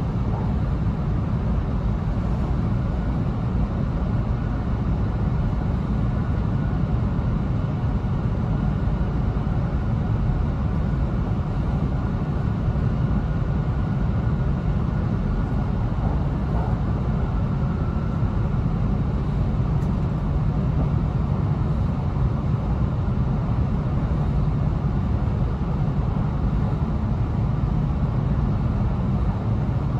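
Steady running noise inside a JR East E2 series Shinkansen car at speed: an even low rumble that holds level throughout.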